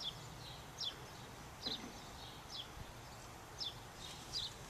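A bird calling faintly outdoors: short high chirps that slide downward, repeated about once a second, over a steady low background rumble.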